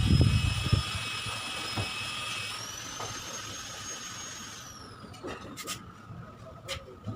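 A small high-speed electric motor whining steadily, rising in pitch about two and a half seconds in, then winding down and dying away; a few sharp clicks follow.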